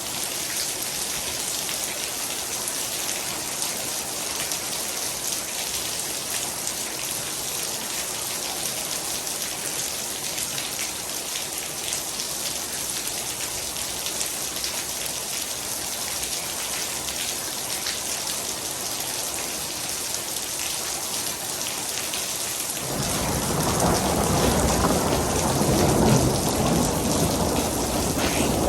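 Heavy rain falling steadily, a dense hiss flecked with individual drop ticks. About three-quarters of the way through, a deep rumble of thunder comes in and grows louder.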